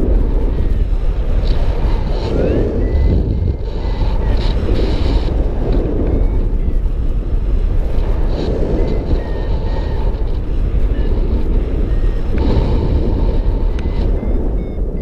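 Wind rushing over the microphone during a paraglider flight, a loud steady rumble, with the short beeps of a flight variometer sounding now and then and several in quick succession near the end.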